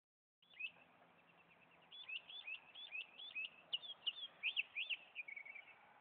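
A songbird singing: one note, then from about two seconds in a quick run of sharp, sweeping whistled notes, about three a second, ending in a short fast trill.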